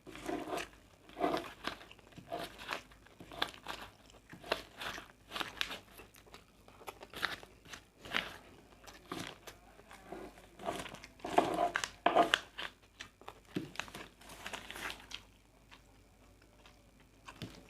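Close-up eating sounds of a person eating nasi goreng: irregular bites, crunches and chewing, with a quieter stretch near the end.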